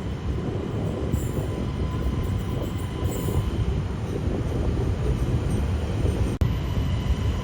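SJ passenger train running along the line, a steady low rumble, with a short break a little before the end.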